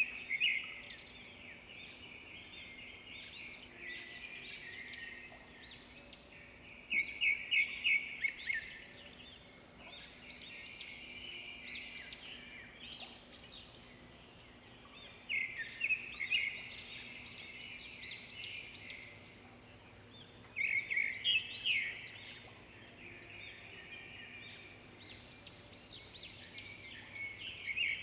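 Songbirds singing and chirping, several calls overlapping in quick high-pitched trills that come in louder bursts every few seconds.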